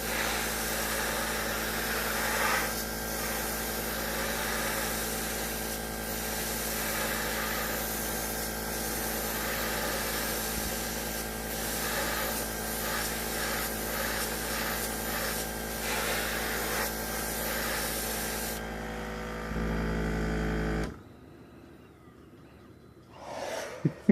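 Airbrush hissing as it sprays paint, over the steady hum of its air compressor. The spray stops about 18 seconds in, and the compressor cuts off a couple of seconds later.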